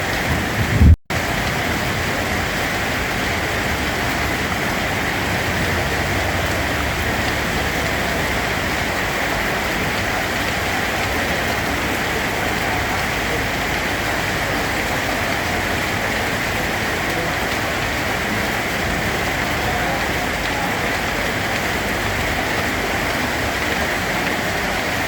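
Steady rain, an even hiss with a low rumble beneath it. About a second in, a brief loud low thump and a split-second gap break the sound.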